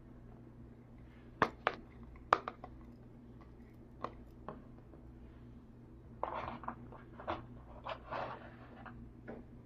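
Small plastic toy kitchen pieces being handled: scattered sharp clicks and taps, with two brief rustles past the middle.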